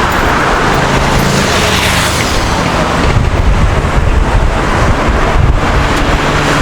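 Busy city street ambience: a loud, steady wash of traffic noise, with a low engine hum from passing vehicles.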